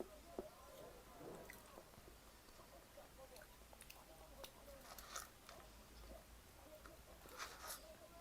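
Faint chewing and mouth sounds of a person eating, with scattered soft crunches and clicks, a little louder about five seconds in and again near the end.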